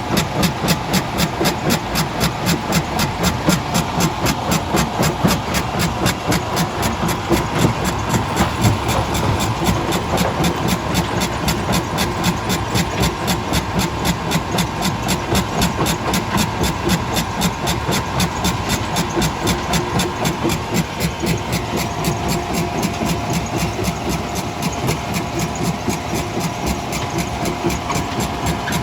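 Heavy crushing machinery running continuously with a steady, rapid rhythmic pulse and a faint steady whine, typical of a jaw crusher plant at work.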